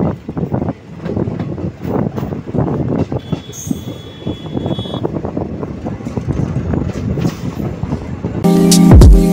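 Passenger train running along the rails: a steady rumble with wheels clicking over rail joints, and a thin high wheel squeal for about two seconds midway. Background music with a beat starts near the end.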